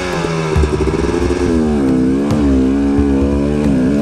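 KTM 250 XC-W two-stroke dirt bike engine working hard up a steep trail climb, its revs rising and falling as the throttle is worked.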